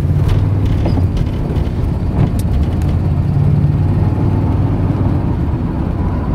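Car running down the road, heard from inside: a steady low engine and road rumble, with a few light clicks and creaks.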